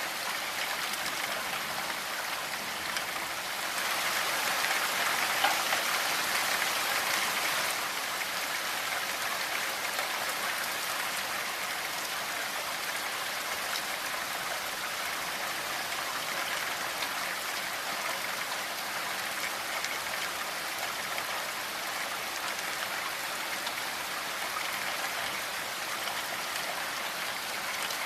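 Steady rainfall, an even hiss of falling rain with fine drop detail. It swells a little about four seconds in and eases back a few seconds later.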